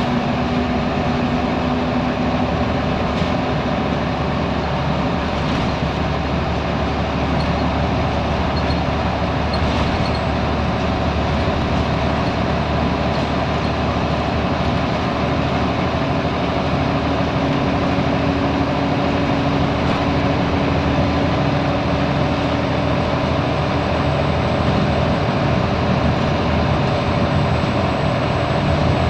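Scania L94UB Wright Solar single-decker bus's diesel engine running steadily under way, with road and running noise; the engine's pitch drops away early on and a similar note returns about halfway through as the revs change.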